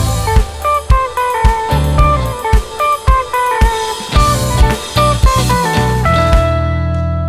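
Indie rock band playing the song's closing bars on electric guitar, bass and drum kit, without vocals. The drums and guitar stop about six and a half seconds in, leaving a final chord ringing out and fading.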